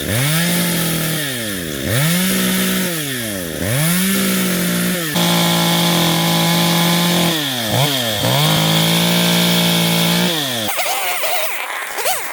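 Chainsaw engine revving up and dropping back three times in quick succession, then held at high revs for a few seconds, twice. It cuts off near the end and electronic music takes over.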